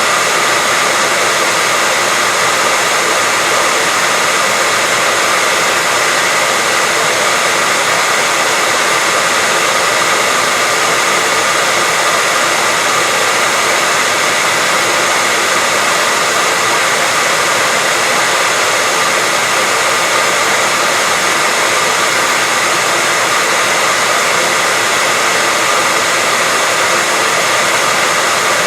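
Hair dryer running steadily at a constant speed: an even, loud rushing hiss with a faint steady whine from the motor and fan.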